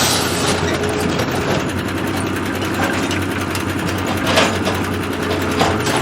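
A heavy machine's engine running steadily, with a couple of short knocks near the end.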